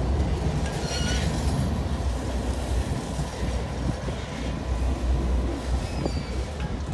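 Freight train of high-sided gondola cars rolling past, a steady low rumble of steel wheels on rail with brief faint wheel squeals about a second in and again near four seconds.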